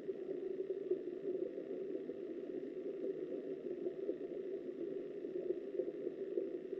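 Steady, muffled rushing of river water flowing past an underwater camera, with no distinct splashes or knocks.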